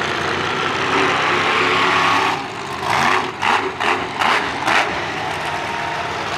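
Large vehicle engines idling steadily, with a run of about five short, louder bursts of noise between about three and five seconds in.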